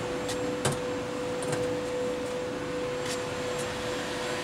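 Amada Pega 244 CNC turret punch standing powered up with its hydraulic unit running: a steady hum with a constant whine, and a light click about two-thirds of a second in.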